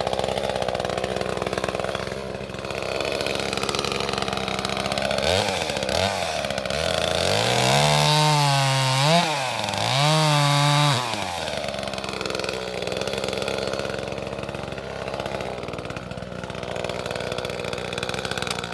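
Small gas chainsaw idling steadily, then revved up and down several times in the middle before settling back to idle.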